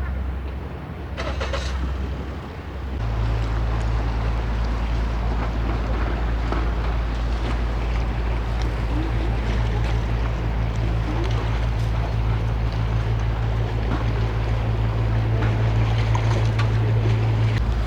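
A steady low engine drone, stepping up and getting louder about three seconds in and then holding steady, with a noisy rush over it.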